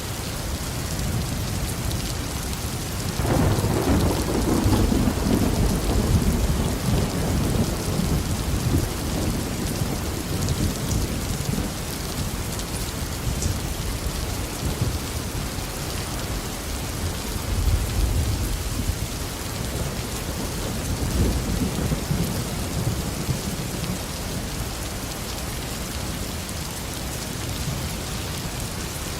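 Steady heavy tropical rain with thunder: a loud rolling rumble about three seconds in that dies away over several seconds, then fainter rumbles about halfway and two thirds of the way through.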